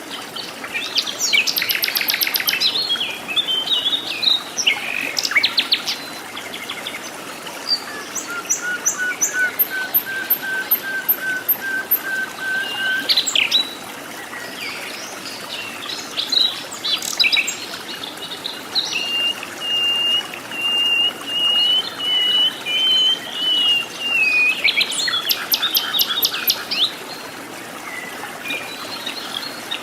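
Several birds calling and singing in jungle forest: scattered chirps and quick bursts of notes, with two long, even series of repeated whistled notes, a lower one about a third of the way in and a higher one past the middle, over a steady background hiss.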